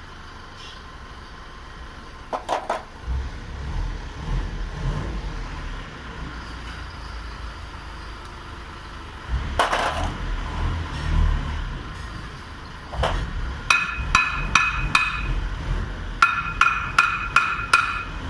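Scattered knocks and clinks of tools on truck brake parts. Near the end come runs of sharp, ringing hammer blows on metal, about three a second, in short groups.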